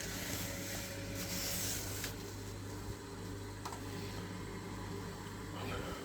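Steady low electrical hum from the Gledhill Electramate's circulating pump, energised but not circulating, which the engineer suspects is faulty and stuck. Two faint clicks sound about two and three and a half seconds in.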